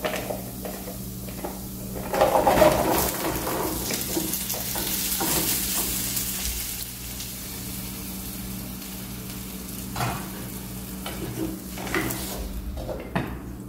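Diced pumpkin tipped into a hot oiled frying pan, a burst of sizzling about two seconds in that settles into a softer frying hiss over the next few seconds. Near the end a wooden spoon stirs and knocks a few times in the pan.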